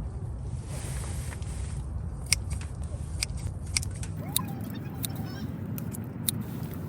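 Wood crackling in a wood stove, with scattered sharp pops over a steady low rumble.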